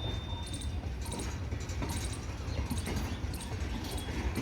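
Goods train rolling past: a steady low rumble with repeated clacking of wagon wheels over rail joints.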